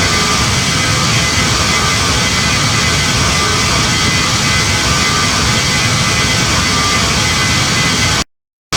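Steady rushing jet-cabin noise of a Boeing 737 MAX 9 in flight: airflow and the hum of its CFM LEAP-1B engines heard from inside the cabin, with a faint steady whine. The sound cuts out for about half a second near the end.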